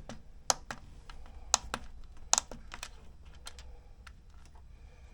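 Buttons on a 12 V diesel heater's control panel being pressed: about ten sharp clicks at irregular intervals.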